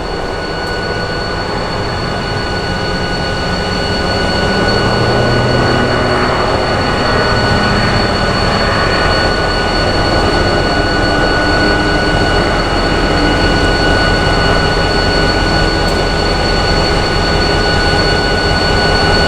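A train running by, a loud steady rumble with a high whine held throughout. It grows louder over the first few seconds and then stays level.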